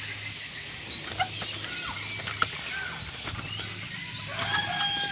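Oriental magpie robin singing: a run of short chirps and gliding whistled notes, ending in a longer held whistle, over a faint steady low hum.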